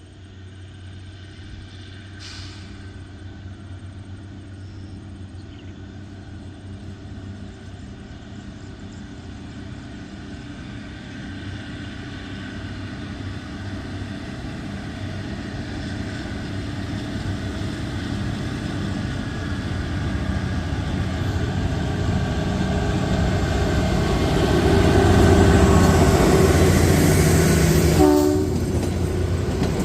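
Kalka–Shimla narrow-gauge train approaching, its engine running with a steady hum that grows louder over about twenty-five seconds. A brief horn note sounds near the end.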